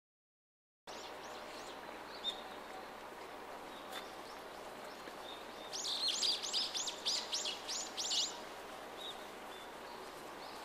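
Common kingfisher calling: a quick run of about a dozen shrill, high, piping notes, each sliding down in pitch, over steady background noise, with a few fainter high calls before it.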